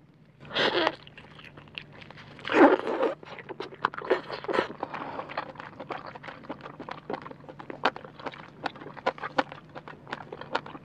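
Close-miked eating: two louder bites in the first three seconds as octopus tentacles go into the mouth, then chewing with many small clicks and crunches.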